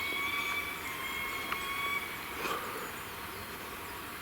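A flying insect whining: a thin steady tone that drifts slightly up and stops about two seconds in, over a quiet forest background.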